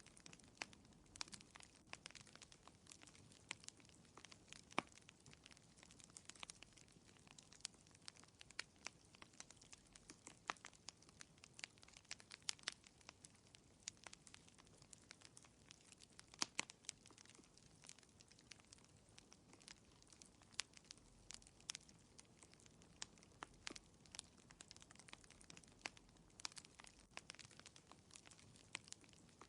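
Wood fire crackling in a fireplace: faint, irregular sharp pops and snaps, several a second, over a soft steady hiss.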